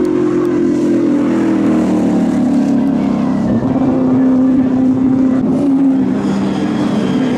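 Group A and C touring cars' racing engines running at speed, their note sliding slowly lower over the first three seconds or so and then holding steady.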